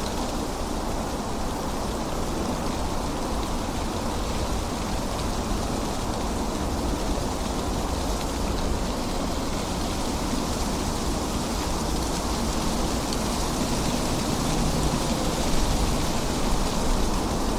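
Steady rain falling, an even hiss of drops with a deep low rumble beneath.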